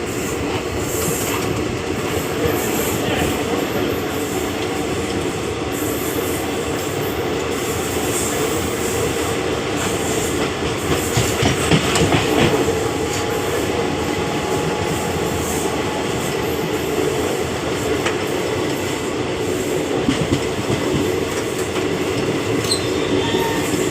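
Passenger train running on the rails: a steady running noise, louder for a moment about halfway through.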